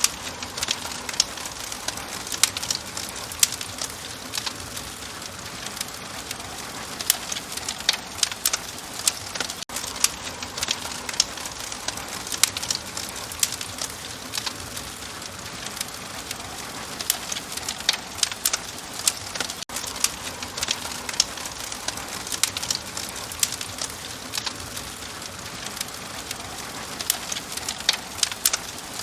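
Open wood fire crackling, with frequent sharp, irregular pops over a steady hiss.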